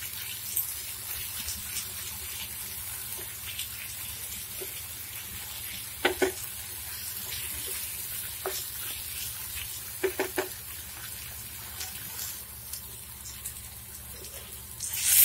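Green masala and chopped tomatoes sizzling softly in a non-stick frying pan as they cook down, with a spatula knocking against the pan a few times, about six seconds in and twice around ten seconds. The sizzle grows louder near the end.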